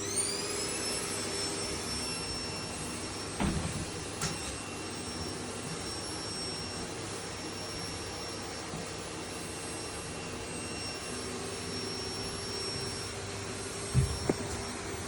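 Vacuum cleaner running steadily with a high motor whine that finishes spinning up in the first half-second, over a low hum. A couple of short knocks come through, the loudest near the end.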